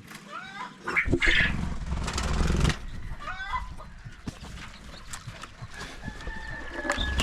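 Poultry calling on a farm: two short runs of rising and falling calls, with a low rumbling noise in between and a thin steady whistle-like tone near the end.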